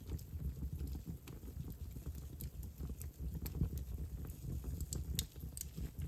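Wood fire burning in a fireplace: a low, steady rumble of the flames with irregular crackles and pops, the sharpest a little after five seconds in.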